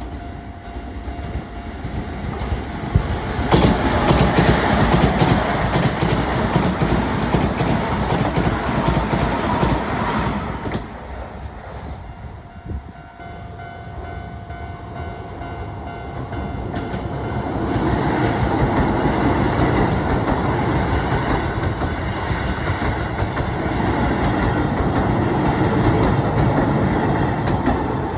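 Keisei electric trains passing a level crossing, wheels clattering over the rail joints. The sound swells about three seconds in, eases around the middle, and builds again in the second half as another train passes.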